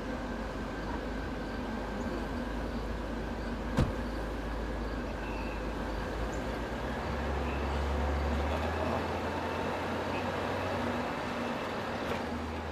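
An SUV's engine running at idle over a steady outdoor hiss, with a single sharp click about four seconds in. Its low rumble swells from about seven seconds and eases off near eleven seconds as the vehicle drives away.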